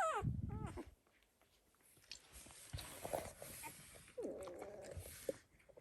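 Dalmatian puppy squealing, with a high cry that drops sharply in pitch at the start and a couple of short whimpers just after. A longer whine follows about four seconds in. The puppy is protesting while loose scabs are picked off its head.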